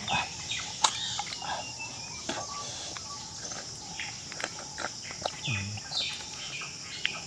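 Forest ambience: a steady high insect drone with birds chirping and calling, and scattered short clicks and rustles.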